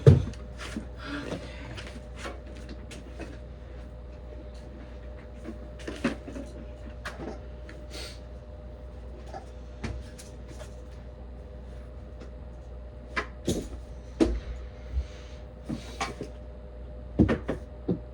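Scattered clicks and knocks of hard objects being handled and set down, with a loud thump at the very start and a cluster of knocks near the end, over a faint steady hum.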